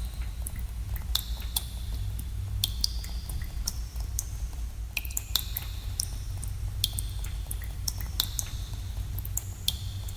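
Water drops falling in a cave, many irregular drips a second, each a sharp plink with a short ringing tone, over a steady low rumble.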